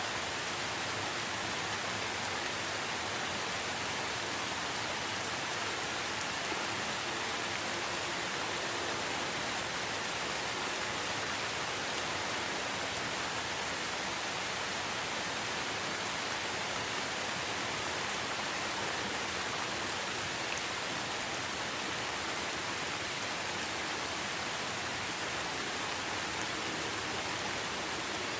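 Steady rain: an even hiss with a few faint scattered drop ticks.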